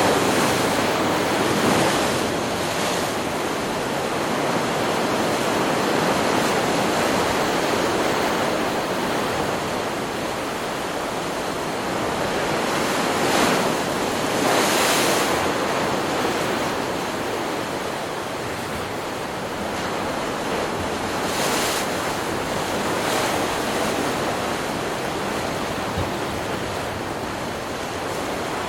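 Ocean surf washing on a beach, a continuous rush of breaking waves that swells a little at about 13 and 15 seconds in and again about 21 seconds in.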